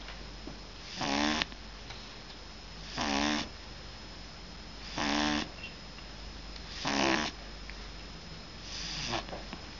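Sleeping pug snoring like a person: short snores about every two seconds, five in all, the last one weaker.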